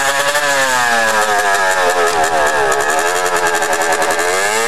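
Dirt bike engine running close by, its pitch rising and falling repeatedly as the throttle is worked, with a final rise near the end.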